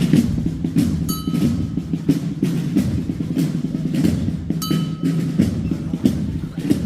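Procession drums beating a steady slow march, about two strokes a second, with two brief ringing tones over it.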